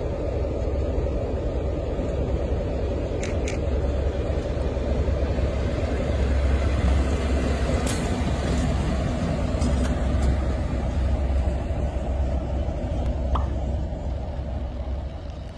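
A vehicle's steady low rumble, broken by a few brief sharp clicks, fading near the end.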